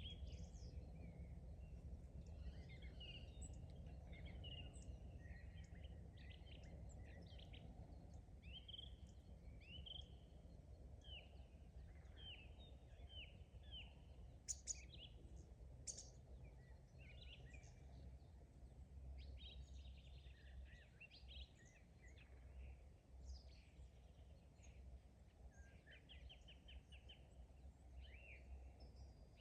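Several songbirds chirping and calling in short phrases, with a quick trill near the end, over a steady low rumble. Two sharp clicks come about a second and a half apart around halfway.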